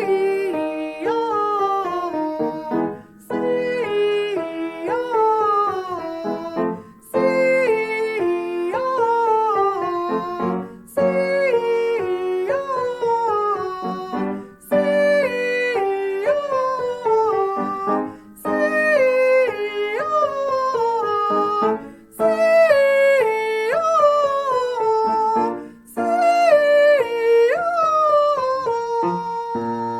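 A singer doing a vocal warm-up with piano accompaniment: each phrase starts with a short hissed 's', then 'ah' sung down the scale, about eight repeats with a breath between, each a step higher.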